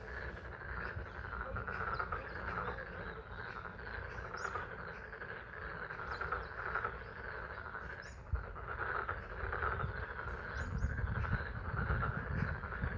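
A chorus of frogs calling continuously at a pond in spring rain, over a steady low rush of rain, with a few short high chirps scattered through.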